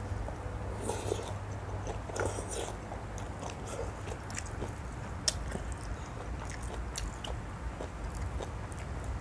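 A person eating noodle soup: chewing and biting, with scattered small clicks and scrapes of utensils and one sharper click about five seconds in, over a steady low hum.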